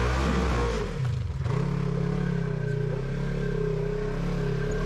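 Off-road vehicle's engine revving, its pitch swinging up and down, then dropping off about a second in. It picks back up and holds a steady rpm.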